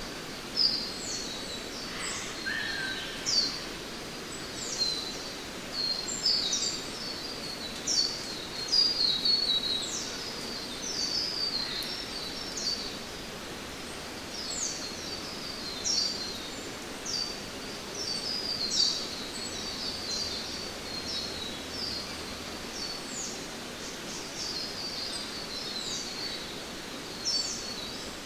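Rainforest ambience: birds calling over and over in short high chirps that drop in pitch, over a steady rushing of falling water. A single lower call comes about two seconds in.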